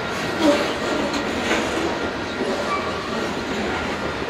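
Covered hopper cars of a long grain train rolling past: a steady rumble of steel wheels on rail, with two sharp wheel knocks about half a second and a second and a half in.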